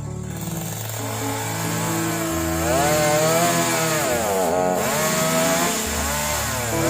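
Two-stroke chainsaw running and cutting, its engine pitch rising and falling and dipping twice, over background music with held chords.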